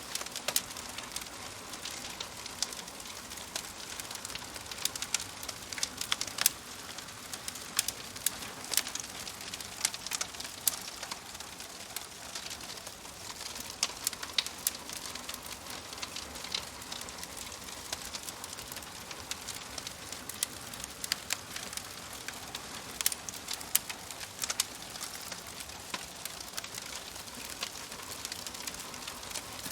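Wood fire crackling steadily, with irregular sharp pops and snaps over a soft hiss.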